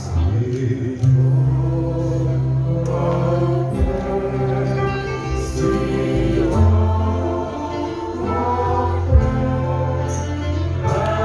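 Gospel music: a choir singing over sustained bass accompaniment.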